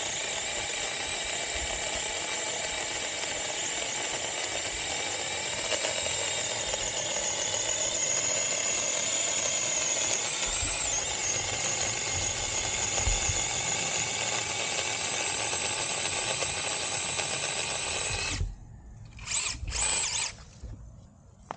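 Cordless battery-powered chainsaw (SeeSii) running steadily under load through a limb, its electric motor and chain giving a steady whine, the chain freshly oiled. The sound stops suddenly about 18 seconds in, followed by a few short bursts.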